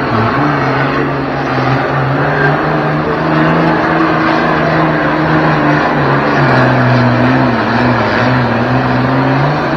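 1972 International 1066 super stock pulling tractor's engine running hard under load, its pitch dropping lower about six and a half seconds in as it pulls the sled.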